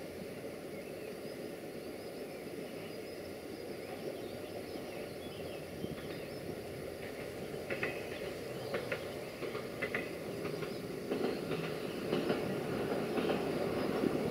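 A Siemens Desiro VT642 diesel multiple unit running past along the line, its steady running noise growing louder as it approaches. From about halfway, its wheels click over the rail joints, more and more often toward the end.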